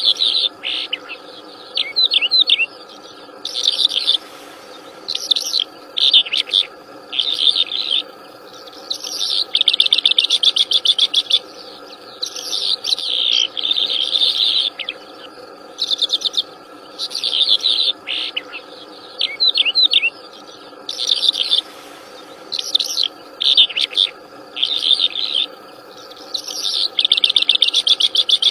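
A wild songbird singing busily in short, rapid trilled phrases, one after another with brief pauses between them. A steady insect drone runs underneath.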